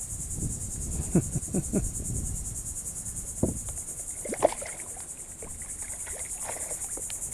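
A small hooked snook splashing in the water beside a kayak: a quick cluster of splashes about a second in, then two more near the middle. A steady, high, pulsing insect buzz continues underneath.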